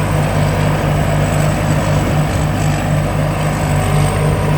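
260 hp combine harvester's engine running steadily, a loud even throbbing drone with a thin high whine over it.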